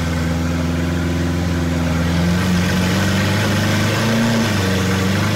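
Lamborghini Aventador SV's 6.5-litre V12 running at idle with no exhaust fitted, straight out of the headers; a steady, loud note. A little over two seconds in, the engine note changes and wavers, then settles again.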